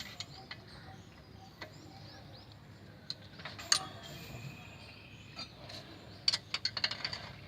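Hand tools clicking and clinking against metal: a few scattered sharp clicks, then a quick run of about eight clicks near the end.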